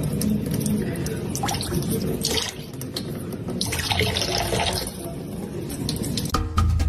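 Running water, like a tap pouring into a sink, with a couple of louder swells of splashing; music starts near the end.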